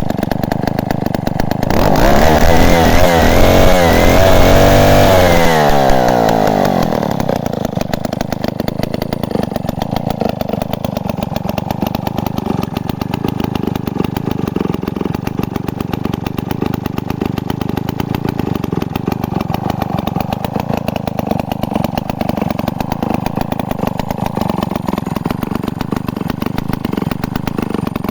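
Freshly restored Solo Rex vintage two-stroke chainsaw engine running at idle. About two seconds in it is revved up for a few seconds, then drops back to a steady idle for the rest of the time.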